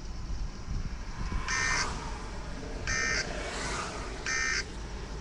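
Three short, buzzy electronic beeps, evenly spaced about a second and a half apart, over the steady low rumble of a moving vehicle.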